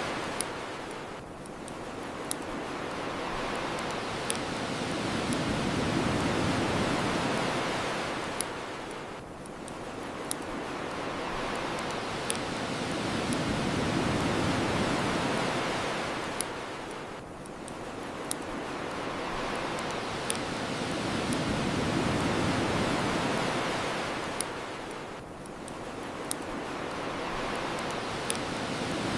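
Ocean waves washing onto a shore, swelling and fading about every eight seconds, with scattered sharp pops of a crackling bonfire.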